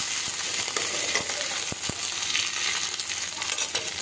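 Diced potatoes sizzling as they fry in hot mustard oil in a metal kadai, with a slotted metal ladle clicking and scraping against the pan a few times as they are stirred.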